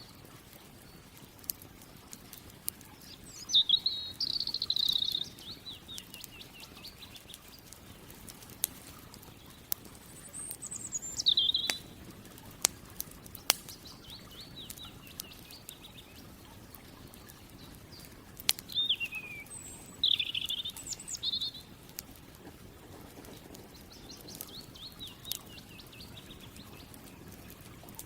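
Birds singing outdoors: several separate song phrases of quick notes sliding down in pitch, about 4 s, 11 s and 19–21 s in, with fainter ones later. Sharp pops and crackles from a campfire sound throughout.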